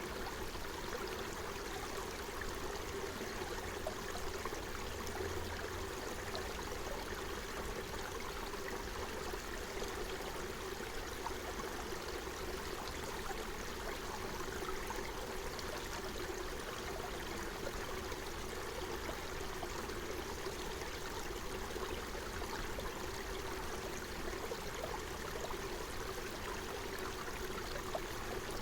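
Forest stream flowing steadily, water running and trickling over stones.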